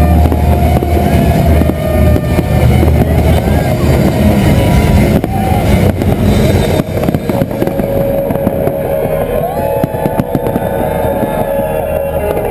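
Big fireworks display: a continuous low rumble of booms, with sharp cracks and bangs coming thicker in the second half, over the voices of a large crowd.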